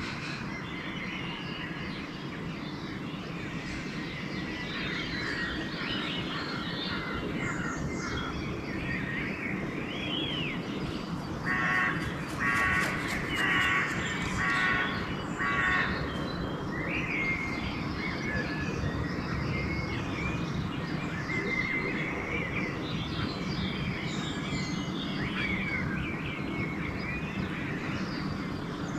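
Dawn chorus of songbirds chirping and whistling, with a crow cawing about five times in quick succession near the middle, the loudest sound. A steady low rumble runs underneath.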